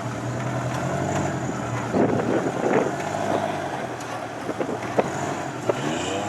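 Rock crawler's engine running steadily as it works over the rocks. It gets louder and rougher for about a second two seconds in, and a few sharp knocks sound along the way.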